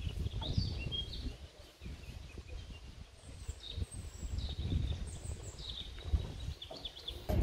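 Small birds chirping, short high calls scattered throughout, over a steady low rumbling noise.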